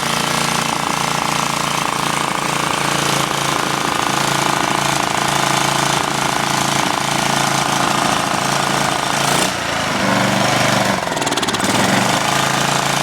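Small gasoline lawn mower engine running steadily and still cold, soon after a choked pull-start. It dips briefly about nine and a half seconds in, and its tone shifts for a couple of seconds after.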